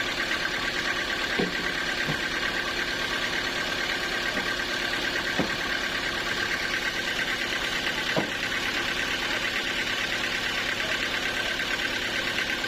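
Sawmill engine running steadily at a constant speed, with a steady high whine over it and a few faint knocks.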